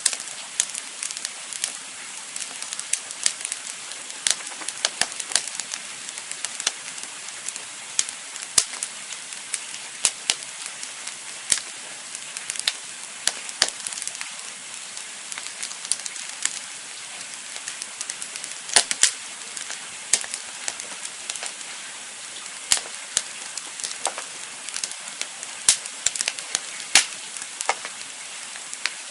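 Campfire burning, a steady hiss with irregular sharp crackles and pops, several a second.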